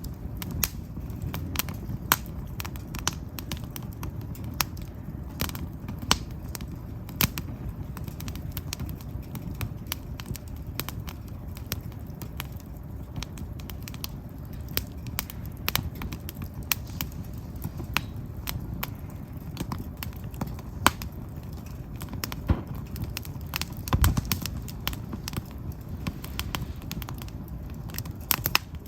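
Firewood fire burning, crackling with irregular sharp pops and snaps, several a second, over a steady low rumble. There is a louder low thump about three-quarters of the way through.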